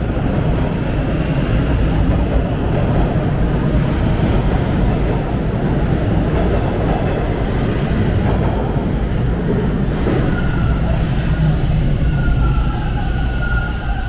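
Subway train running along the platform track, a loud steady rumble of wheels on rail. From about ten seconds in, thin high-pitched wheel squeals rise over it.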